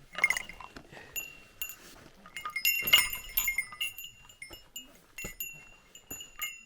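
A small metal bell jingling in irregular shakes: a run of clinks, each leaving a short high ringing tone, busiest around the middle.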